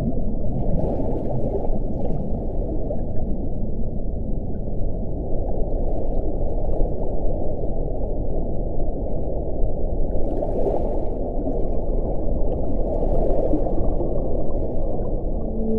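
Wind blowing in a steady low rush, with a few airier gusts reaching higher, once about a second in and twice later on.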